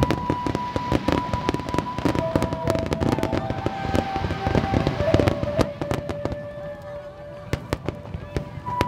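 Fireworks starmine over the sea: a dense run of quick pops and crackles from bursting shells and sea-level fountains, with a heavier thump near the start. Music with long held notes plays alongside.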